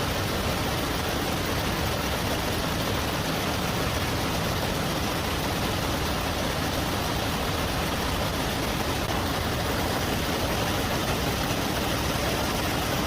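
Nail-making machinery running with a steady, unbroken mechanical noise.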